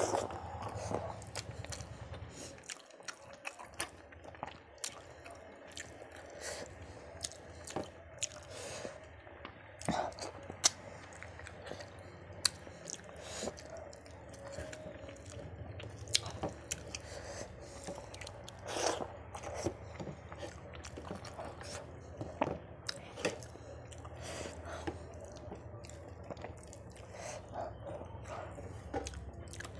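Close-miked chewing and wet mouth smacks of a person eating rice and fish curry by hand, with irregular short clicks throughout and fingers mixing rice on a plate.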